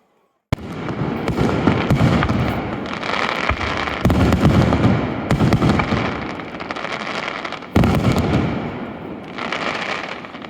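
Aerial fireworks shells bursting in quick succession, with booms and dense crackling. It starts suddenly about half a second in, with fresh loud bursts about four and eight seconds in, then fades near the end.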